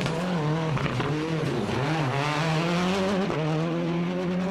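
World Rally Car's turbocharged four-cylinder engine at full stage pace, its note climbing and dipping as the driver shifts and lifts, with the sharpest drops about one and a half and three seconds in.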